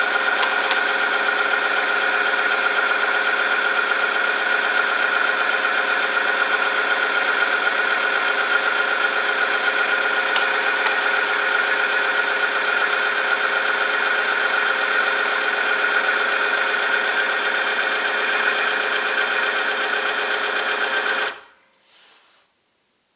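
Electric-motor-driven oil film friction tester running under load with a steady mechanical whine of several tones, cutting off suddenly near the end as the machine stops.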